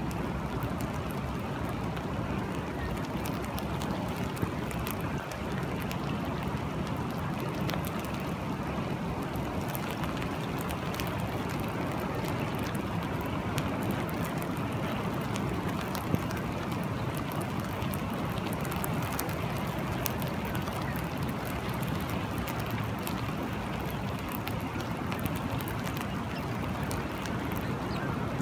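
Steady rain falling, a dense hiss with many scattered sharp drop ticks over a low, steady rush of water.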